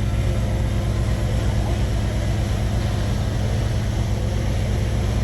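Heavy earthmoving machine's diesel engine running steadily at an even speed: a low, constant hum with no change in pitch or level.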